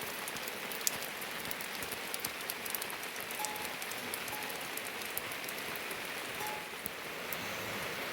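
Steady rain falling, with many sharp individual drops ticking through the even hiss.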